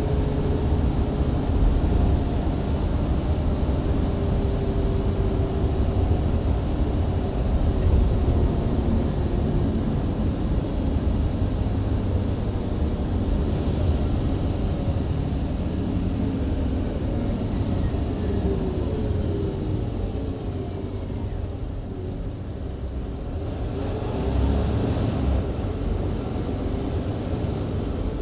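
Mercedes-Benz Citaro C2 LE hybrid bus heard from inside, running at speed on the open road: steady engine and Voith automatic gearbox drone with road rumble, and a few faint whines slowly falling in pitch. The sound eases off about twenty seconds in and builds again a few seconds later.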